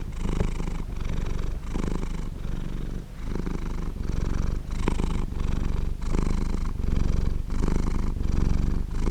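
Domestic cat purring steadily and close up, the low rumbling buzz pulsing with each in-breath and out-breath, a little under a second per breath.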